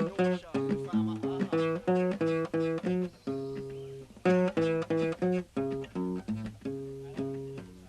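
A plucked string instrument plays a melody one note at a time, each note ringing and fading. A quick run of notes eases into longer held notes, and a fresh phrase starts about four seconds in.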